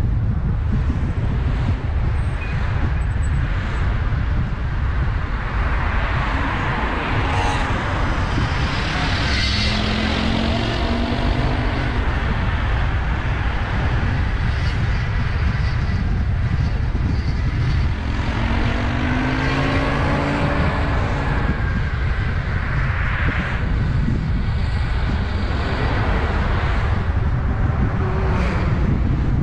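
Car driving on the road: a steady, loud rumble of tyre, engine and wind noise, with an engine tone that rises twice, about ten and twenty seconds in.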